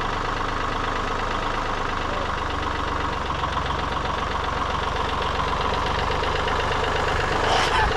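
Tractor engine running steadily with a fast, even beat, with a brief sharp noise near the end.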